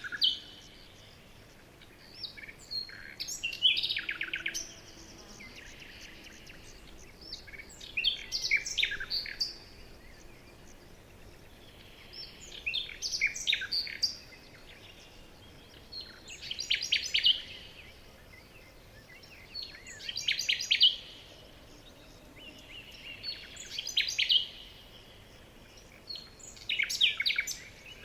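Songbird song: short phrases of quick, high chirping notes, about one every three to four seconds, over a faint steady background hiss.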